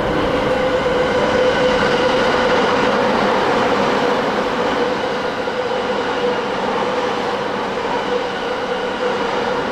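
JR E231-500 series electric commuter train running past a station platform: continuous loud running noise of wheels on rails, with a steady whine held through it.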